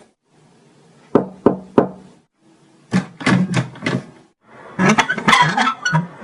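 Three sharp knocks about a third of a second apart, then a quicker run of knocks and taps, and a busier clatter of strikes near the end.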